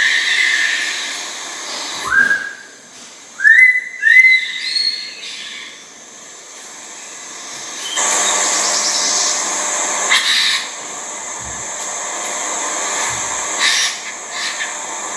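Long-tailed manakin calling: loud clear whistles that rise quickly in pitch, three in a row about two to four seconds in. A stretch of steady hissing follows near the middle.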